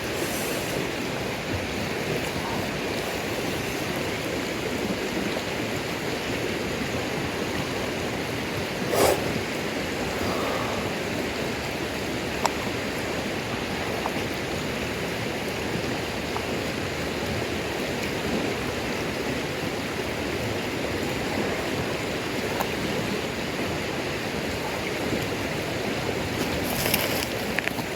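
Steady rushing noise with a few sharp pops from a campfire of damp firewood, the loudest about a third of the way in and a small cluster near the end.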